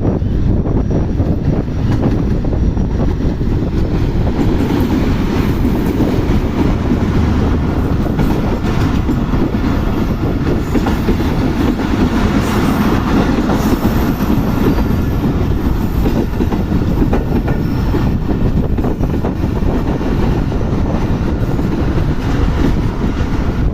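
Mehran Express passenger train rolling past at the station, its coach wheels clattering over the rail joints with a steady loud rumble, and a faint high wheel squeal around the middle.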